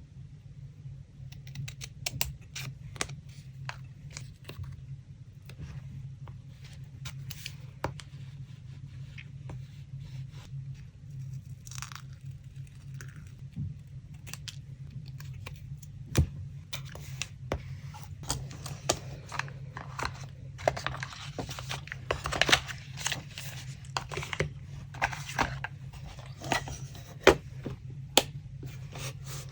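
Paper being handled for a collage: scattered crinkles, tears and light taps, sparse at first and much busier in the second half, over a steady low hum.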